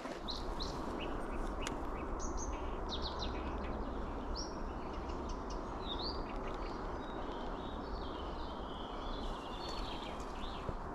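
Small birds chirping and calling, many short chirps and quick sweeping notes, over a steady background rush of noise.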